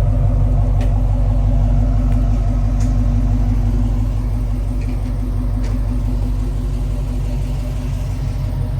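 2012 Dodge Charger SRT8 Super Bee's 392 (6.4-litre) HEMI V8 running steadily while the car drives, a deep low exhaust drone that eases slightly quieter about halfway through.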